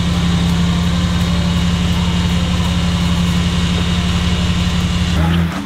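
Toyota LandCruiser 4WD engine idling steadily while the truck is stopped on a rock step. The sound breaks off abruptly near the end.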